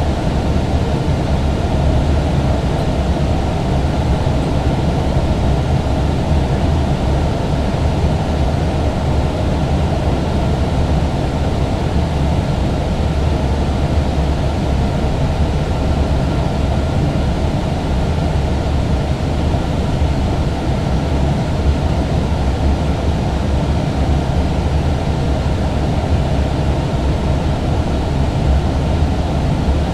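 Steady flight-deck noise of an Airbus A321 on approach: a constant low rumble with an even hiss above it and a faint steady tone.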